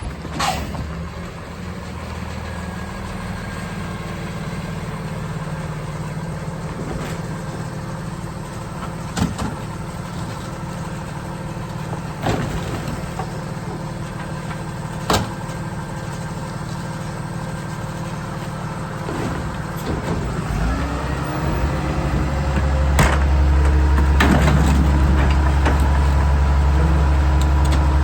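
Garbage truck engine idling with a few sharp knocks and clanks of bins, then the engine revs up about three-quarters of the way through and holds at a higher, louder run.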